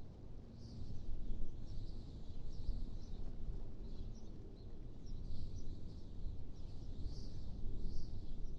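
Wind blowing in gusts, a low rushing noise that swells and eases every second or two, with small birds chirping lightly throughout.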